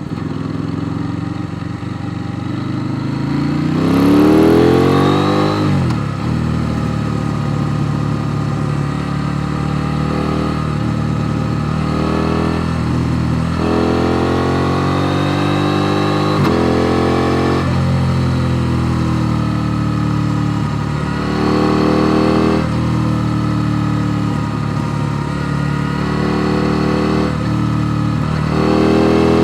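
KTM Duke 890 R's parallel-twin engine accelerating hard through the gears: its note climbs steeply, drops sharply at each upshift, then climbs again, many times over.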